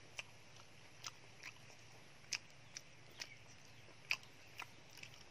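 A person chewing food close to the microphone: short, irregular clicks of the mouth and teeth, about nine in five seconds.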